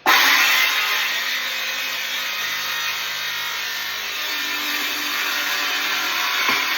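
Power saw, blade set to full depth, starting suddenly and plunge-cutting steadily through a kitchen worktop along the sink cutout line.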